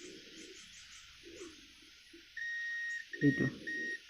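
Digital multimeter in continuity (beep) mode giving a steady high beep from about two and a half seconds in, cutting out briefly a few times as the probes touch and slip. The beep is the sign of a direct connection between the probed battery-connector pin and a capacitor on the phone's board. A short, louder low bump sounds just after the beep starts.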